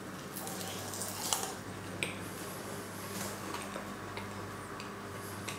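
A person chewing a mouthful of crisp puff-pastry apple tart with ice cream, heard as faint scattered crunches and mouth clicks. A steady low hum runs underneath.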